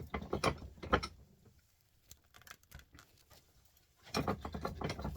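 Rapid small clicks, taps and rattling of hand work on a small scrap component held in a bench vise. There is a burst of handling noise at the start, a near-quiet gap of about three seconds with a few light ticks, then another run of quick clicks and rattles near the end.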